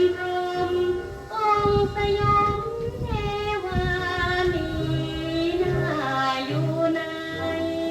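A woman singing a Thai song in long, held notes over a band accompaniment, played back from an old gramophone record.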